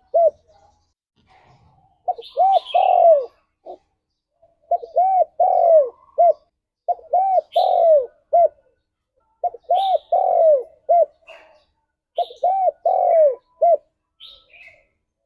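Spotted dove (tekukur) cooing: five repeated phrases, each a quick run of rounded coo notes ending in a short clipped note, about every two and a half seconds. Faint high chirps from small birds come in between the phrases.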